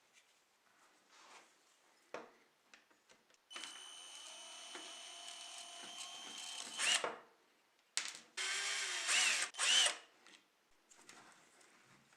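Small electric power tool running: a steady whir for about three seconds that rises briefly as it stops, then after a short pause two louder, shorter runs. Faint clicks and knocks of handling come before and after.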